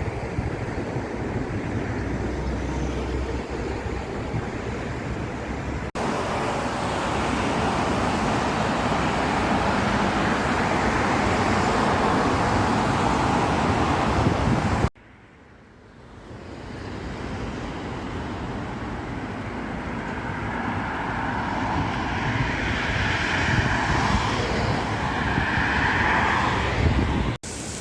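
Steady road-traffic noise, an even rushing hiss of passing vehicles, broken by abrupt cuts about six and fifteen seconds in and again near the end.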